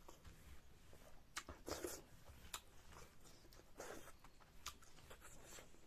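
Faint, scattered clicks and a few short rustling noises against quiet room tone.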